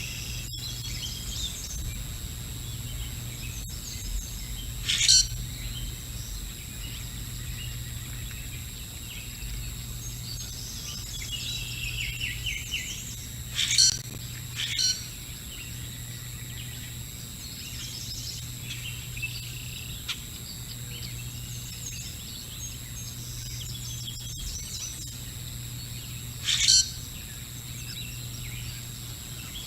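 Outdoor birdsong with scattered small-bird chirps and four brief, sharp, loud calls, two of them close together about halfway through, over a steady low electrical hum.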